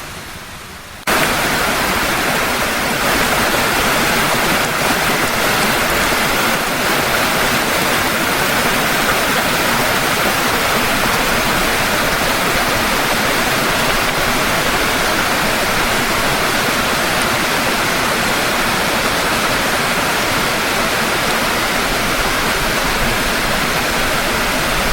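Heavy rain as a dense, steady hiss with no thunder, cutting in abruptly and loud about a second in.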